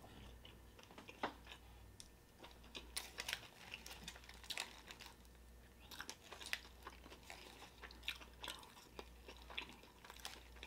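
A person chewing a big mouthful of burrito close to the microphone: quiet, irregular wet mouth clicks and smacks.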